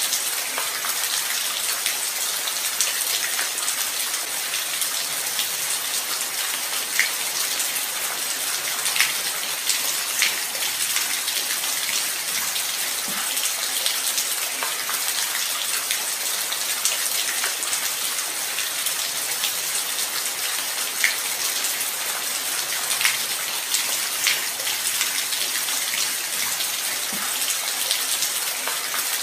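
Steady light rain: an even hiss with individual drops ticking here and there.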